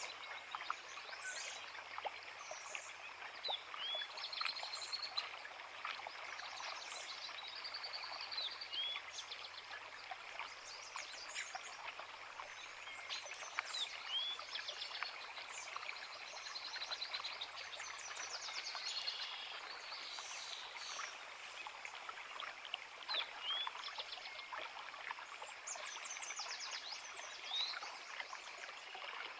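A forest creek runs with a steady rush of water, and several songbirds sing over it with short chirps, trills and quick whistles throughout.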